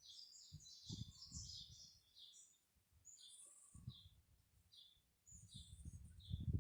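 Small birds chirping and tweeting in quick, faint bursts, a dense flurry in the first two seconds and then scattered calls. Irregular low rumbles come and go underneath.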